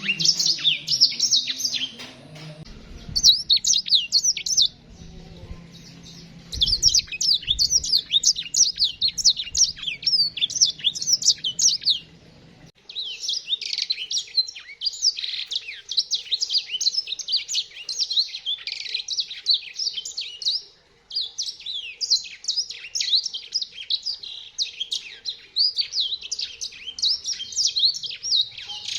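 Several caged finches, Mozambique canaries among them, singing busily in fast, high twittering phrases that overlap, with short breaks about 2, 5, 12 and 21 seconds in. A faint low hum runs underneath during the first twelve seconds.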